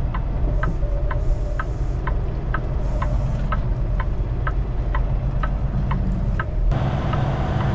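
Semi-truck diesel engine running while reversing, heard from the cab, with the signal flasher relay ticking steadily about two times a second. About two-thirds of the way through, the engine sound shifts and the ticking fades under it.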